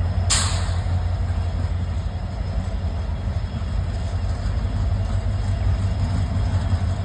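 Train running with a steady low rumble. A short, sharp hiss comes about a third of a second in.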